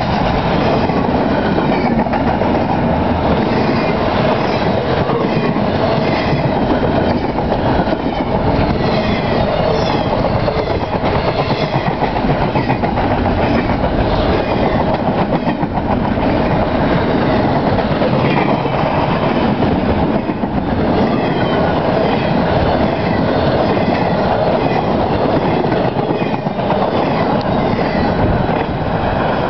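Empty intermodal well cars of a CSX freight train rolling past close by: a loud, steady rolling rattle of steel wheels on rail.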